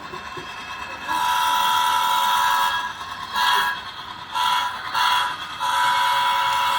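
Sound-equipped model GP30 diesel locomotive sounding its recorded air horn through the model's sound system: one long blast, three short ones, then a long held blast.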